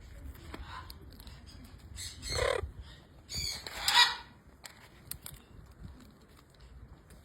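Green macaw giving two harsh squawking calls, about two and three and a half seconds in, the second the louder; a few faint clicks between.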